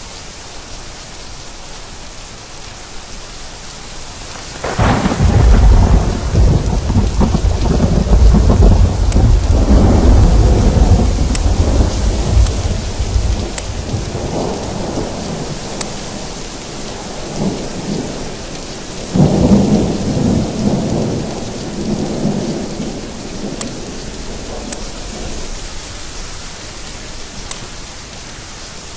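Steady heavy rain with thunder: a loud rolling thunderclap breaks out about five seconds in and rumbles away over the next ten seconds, and a second, weaker roll follows later, with sharp drop ticks over the hiss of the rain.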